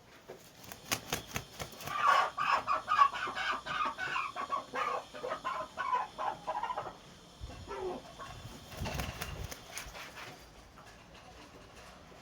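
Aseel chicken clucking in a quick, dense run of short calls that fades out after about seven seconds, with sharp clicks scattered throughout.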